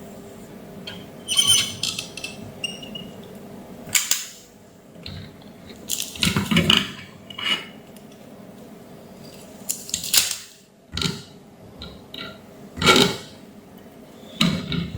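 Tools and small hard parts being handled and set down on a workbench: irregular clinks, knocks and clatters every second or two, over a faint steady hum.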